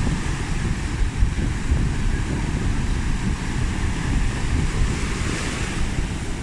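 Wind buffeting the microphone with a heavy, gusty rumble, over the hiss of sea surf, which swells briefly about five seconds in.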